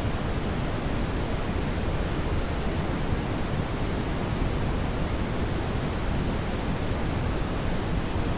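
Brown noise: a steady, even rumbling hiss, heaviest in the low end and thinning toward the top, with no change over time.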